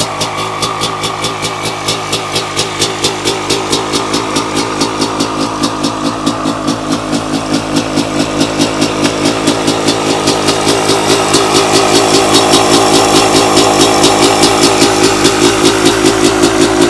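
Suzuki RM250 single-cylinder two-stroke engine idling steadily as it warms up after a cold start, with no revving. The idle grows louder partway through.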